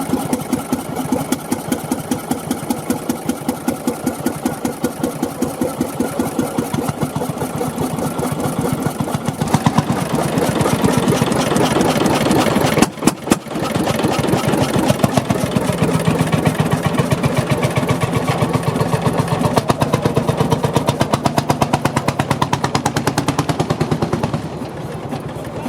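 Deutz MH320 single-cylinder, water-cooled, direct-injection stationary diesel engine running with a steady, even beat of firing strokes. There is a brief break about thirteen seconds in, and the sound drops a little near the end.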